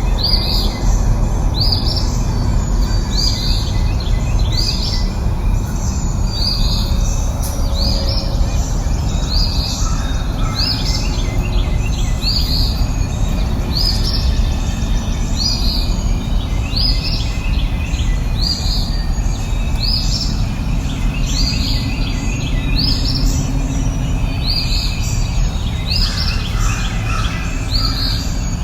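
A bird calling over and over, a short high call about once every second and a half, over a steady low rush of background noise.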